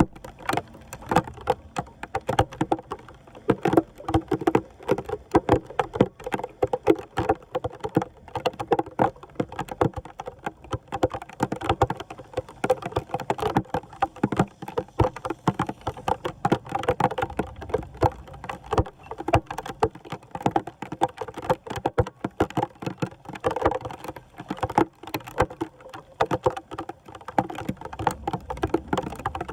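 Floodwater splashing and sloshing at a street drain, with a dense, irregular patter of sharp ticks and splashes.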